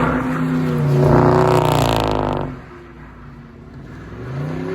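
Car engine revving hard, its pitch climbing, then cutting off abruptly about two and a half seconds in; it revs up again near the end.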